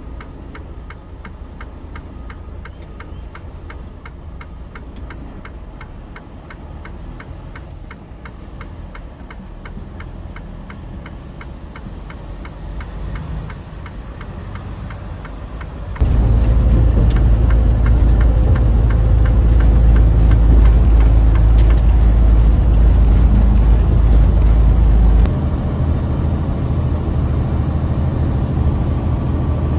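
Semi-truck engine and road noise, with a steady low rumble and faint regular ticking. About sixteen seconds in it jumps suddenly to a much louder rumble, then drops back partway near twenty-five seconds.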